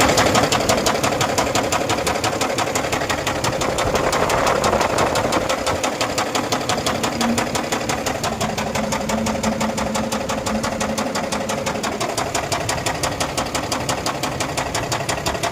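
Tata Prima truck's diesel engine running with a fast, even, rhythmic knocking clatter, the engine sound problem the uploader puts down to a blasted engine block.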